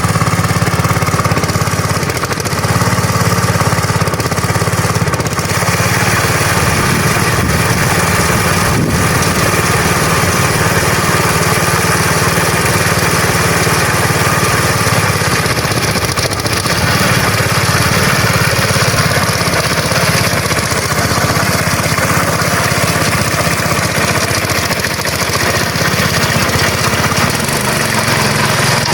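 Small engine running steadily, with only slight rises and falls in level.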